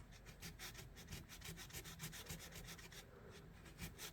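Fine 600-grit sandpaper rubbed back and forth in quick short strokes, several a second, on the rusty steel of an old pocket knife, loosening surface rust. Faint.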